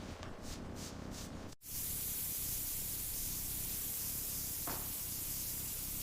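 Sanding strokes on a car body panel, several a second, then after an abrupt break at about a second and a half, a spray gun hissing steadily as primer goes on.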